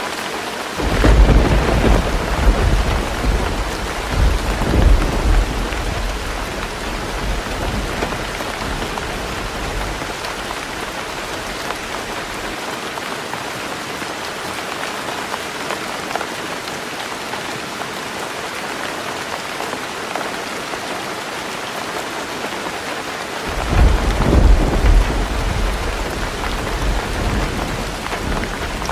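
Heavy rain falling steadily on a roof, with two long rolls of thunder: one beginning about a second in and fading over several seconds, another starting near the end.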